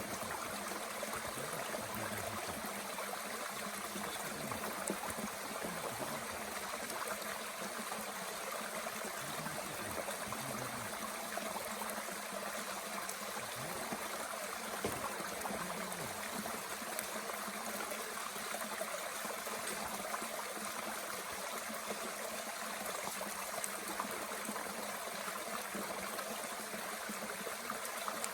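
Mountain stream flowing steadily, an even rush of water with a few faint clicks over it.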